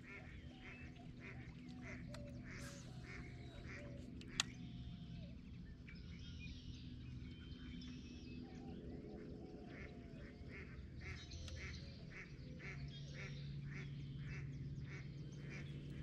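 A bird calling in a long series of short, duck-like quacks, about two or three a second, over a faint low steady hum that shifts pitch about twelve seconds in.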